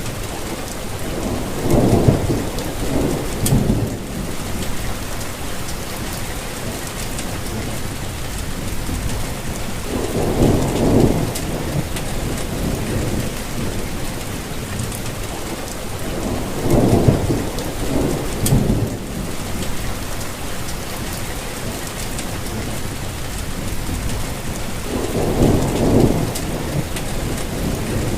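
Steady rainfall, with four deep rumbles that swell and fade, each lasting a second or two.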